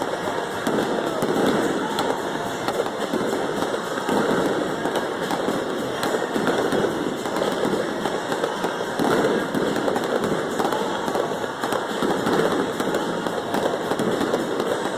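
Fireworks going off in a continuous stream of overlapping pops and crackles, without a break.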